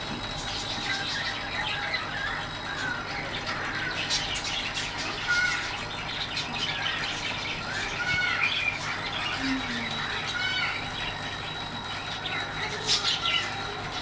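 Small birds chirping and twittering in short, repeated rising and falling calls, over a steady background hiss.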